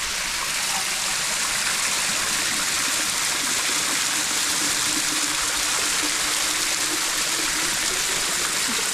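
Steady rush of running water from a stream, flowing without a break.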